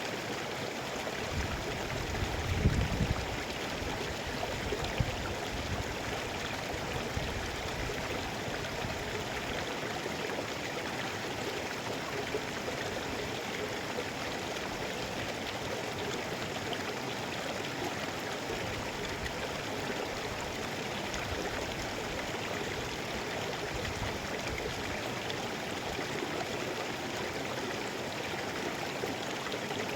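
Mountain river flowing, a steady, even rush of water, with a few brief low rumbles in the first five seconds.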